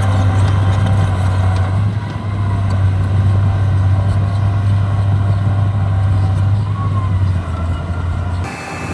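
Heavy diesel engine of landfill earthmoving equipment running steadily with a deep, loud hum, breaking off abruptly near the end.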